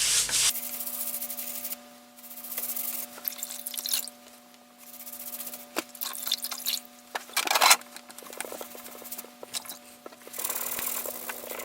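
A damp sponge coated in wood ash rubbed back and forth over a stove's sooty glass window, making a gritty scrubbing sound. It comes in spells with short pauses, and one louder spell comes about two-thirds of the way through.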